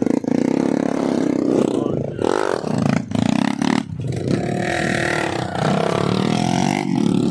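Motorcycle engines running and revving, rising and falling in pitch.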